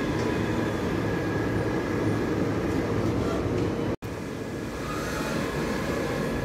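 Train running, a steady rumble with faint steady whining tones above it. The sound cuts out for an instant about four seconds in.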